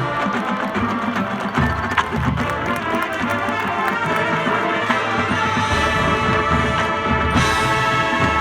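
High school marching band playing its field show: brass holding sustained chords over percussion and low drum hits.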